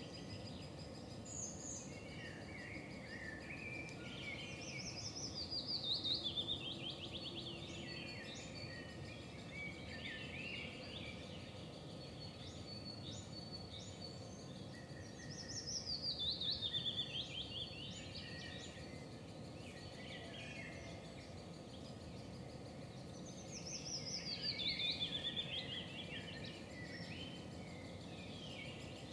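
A songbird sings a short song of rapid notes falling in pitch, three times about ten seconds apart, with fainter bird chirps between the songs over steady outdoor background noise.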